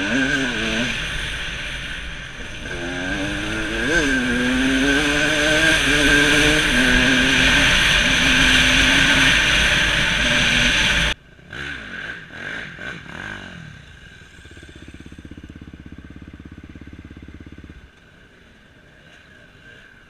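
KTM EXC 200 two-stroke enduro engine revving hard, its pitch climbing and dropping through the gears. It cuts off abruptly about eleven seconds in, leaving a quieter engine buzz and some clatter.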